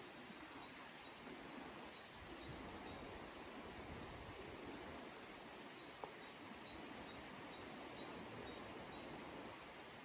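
A small songbird calling two quick series of short, high, downslurred notes, about three a second, over a steady outdoor hiss.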